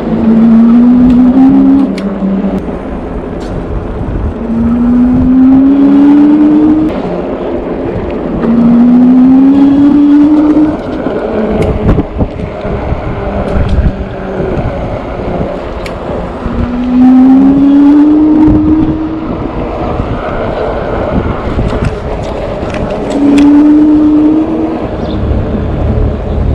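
Engwe Engine Pro e-bike's 750-watt, 48-volt hub motor whining. Its pitch rises in five surges of about two seconds each, over steady wind buffeting on the microphone.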